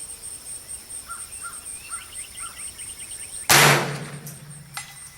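A single .22 LR rifle shot from a Smith & Wesson M&P 15-22, about three and a half seconds in, over a steady high cricket trill. A few short bird chirps come before it.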